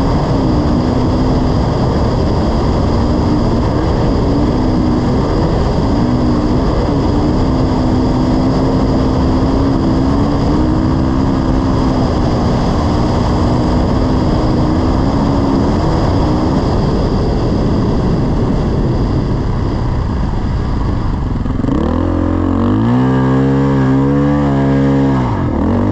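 Dirt bike engine running at steady throttle under heavy rushing noise. Near the end the engine revs up strongly and back down.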